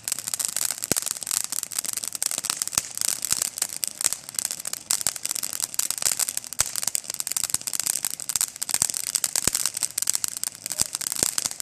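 Sparkle Glory fountain firework burning: a steady hiss of spraying sparks with dense, irregular crackling.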